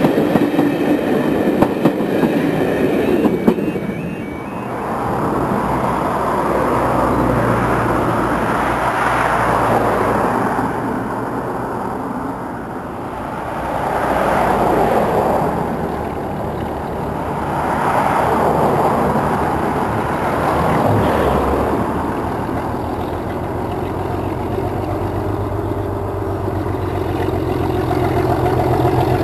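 Train coaches passing close with wheels clattering over the rail joints, then a rushing noise that swells and fades several times. Near the end, an approaching diesel locomotive's engine comes in with a steady note that grows louder.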